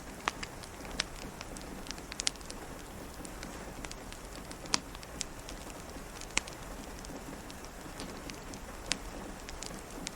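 Steady rain with a wood fire crackling over it: irregular sharp pops every second or so, a few of them loud.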